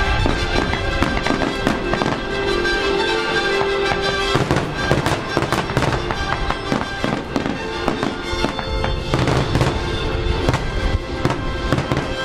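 Fireworks going off repeatedly, sharp bangs and crackling bursts, over music with long held notes.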